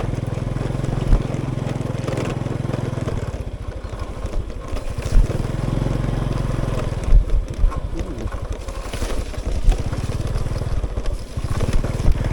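Dirt bike engine running as it is ridden through mud across rice paddies, the engine note dropping off for a moment and then picking up again. Several sharp knocks from the bike jolting over the rough ground.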